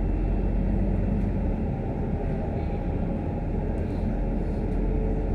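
Scania K310UD double-decker bus on the move, heard from inside the cabin: a steady blend of engine drone and road noise.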